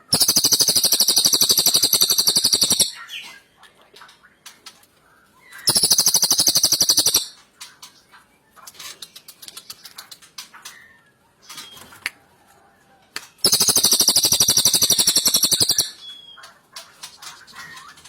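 Rapid, high, buzzy bird trill in three long bouts, the first and last lasting two to three seconds and the middle one shorter, with faint chirps and ticks between them.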